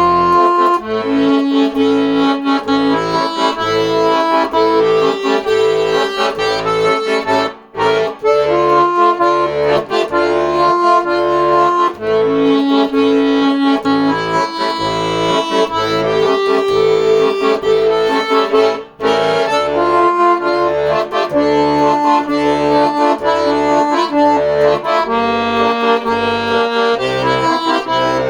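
Accordion playing an instrumental melody of held notes over an even, pulsing bass-and-chord accompaniment, with two brief breaks, about 8 and 19 seconds in.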